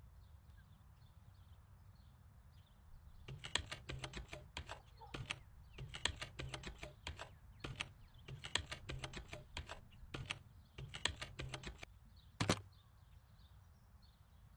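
Computer keyboard typing in quick runs of keystrokes with short pauses, starting about three seconds in and lasting about nine seconds, ending with a single louder click as the chat message is sent.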